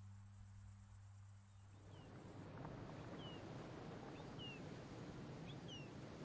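Faint low music tones and a high steady insect-like trill fade out over the first two seconds; the trill stops abruptly. A soft steady outdoor hiss follows, with a few wild birds giving short, downward-slurred chirps.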